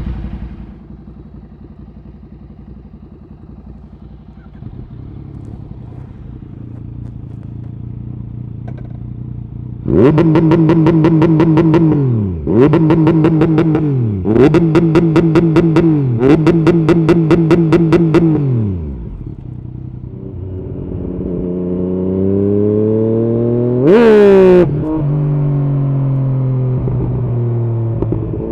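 Yamaha MT-09's three-cylinder engine through an Arrow exhaust, idling and then revved four times in a row to a steady high rev hold with a stuttering, limiter-like edge, as when held on launch control, each hold dropping briefly before the next. Afterwards an engine note climbs slowly, with one quick sharp rev blip near the end.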